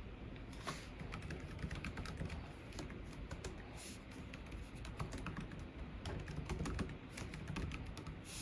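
Computer keyboard typing: a quick, irregular run of key clicks, with a few louder strokes among them, starting about half a second in.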